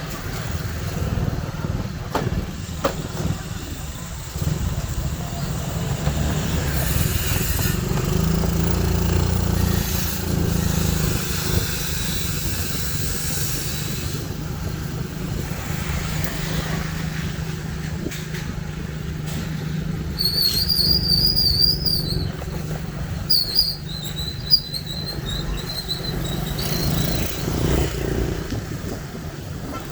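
Motorcycle engine running steadily, with brief high warbling tones about two-thirds of the way through.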